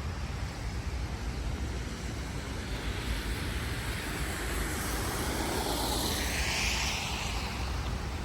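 Wind rumbling on the microphone over steady street noise. A passing vehicle's hiss swells and fades about five to seven seconds in.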